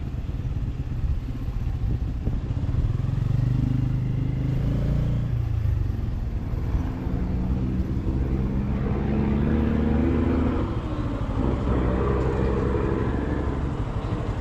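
Motorcycle engine running under way in traffic. Its pitch dips about five seconds in, climbs steadily for several seconds as it accelerates, then drops again about ten seconds in.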